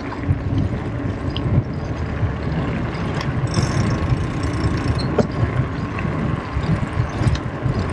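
Wind buffeting the microphone and tyre rumble during a bicycle ride, a continuous uneven low rush with a few sharp clicks and rattles from the bike.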